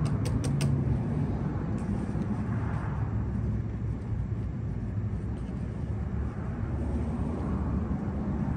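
Steady low rumble of a motor vehicle, with a few quick clicks in the first second.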